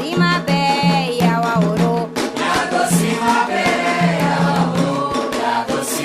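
Candomblé Ketu chant for Xangô: a lead voice sings a line and a chorus of many voices comes in about two seconds in, over drums and percussion keeping a steady beat.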